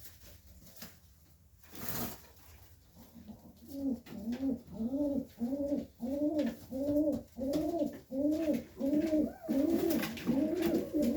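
Serbian Highflyer pigeon cooing: a steady run of rising-and-falling coos, about two a second, starting about three seconds in. A brief rustle comes just before it.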